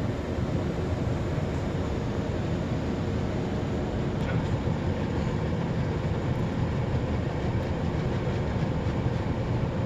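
Automatic car wash machinery running, heard from inside the car's cabin: a steady rumbling wash of noise.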